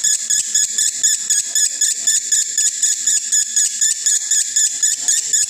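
Male lovebird singing a fast, unbroken 'konslet' chatter: a rapid run of high, shrill chirps, several a second, typical of a male in breeding condition.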